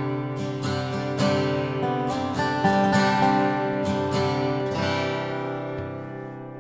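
Acoustic guitar strummed and picked, the instrumental lead-in to a folk-country song, with no singing; it fades slightly near the end.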